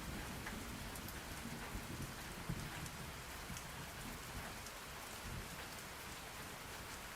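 Steady rain falling on a surface, with scattered drop ticks. A low rumble of thunder fades away in the first moments.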